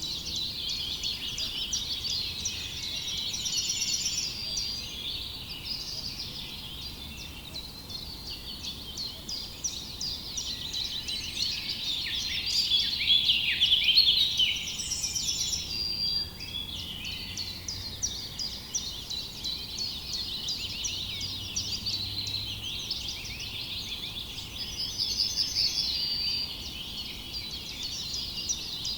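Many songbirds chirping and singing at once: a dense chorus of quick, overlapping calls, with short high trills now and then.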